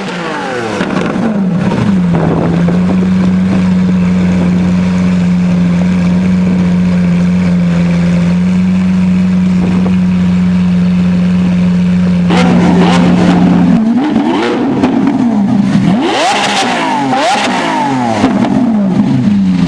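Lamborghini Aventador Roadster's V12 engine dropping back from a rev, idling steadily for about ten seconds, then given a series of quick throttle blips that rise and fall sharply from about twelve seconds in.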